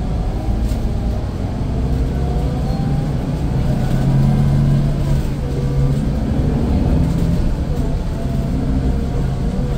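Scania K410IB coach's straight-six diesel engine running under way, its low drone swelling about four seconds in and easing off again, the pitch shifting up and down with the load.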